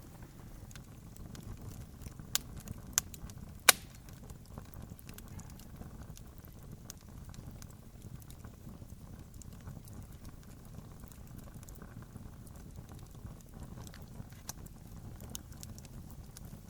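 Campfire crackling: many small snaps and ticks over a low steady rumble, with three sharp louder pops a little over two seconds in, the third the loudest.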